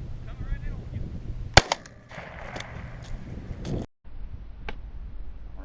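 A single shotgun blast about a second and a half in, sharp and much louder than anything else, followed by a few lighter clicks.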